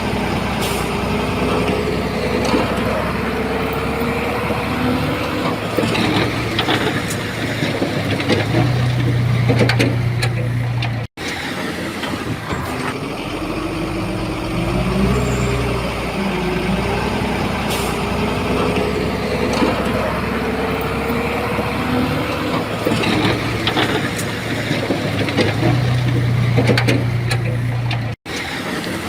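Heavy diesel earthmoving machinery working: a bulldozer's engine running under load with a wavering pitch, with scattered clanks and knocks of metal and stone. The sound drops out briefly twice.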